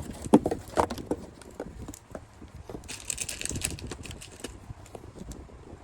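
Unused power-supply cables being handled and bundled: irregular light clicks and knocks from the cables and their plastic connectors, sharpest in the first second, with a brief rustle about three seconds in.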